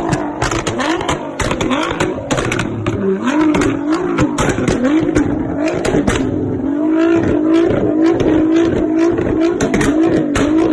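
Nissan GT-R NISMO exhaust as the engine is blipped over and over, each rev rising and falling in pitch about one and a half times a second, with sharp pops and crackles between the revs. From about two-thirds of the way in, the revs are held steadier for a few seconds.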